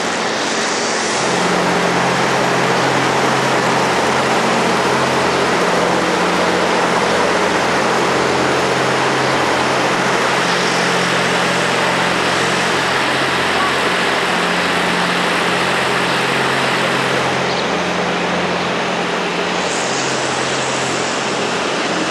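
A steady low engine hum, like a vehicle idling, under a constant rushing outdoor noise; it grows a little louder about a second and a half in.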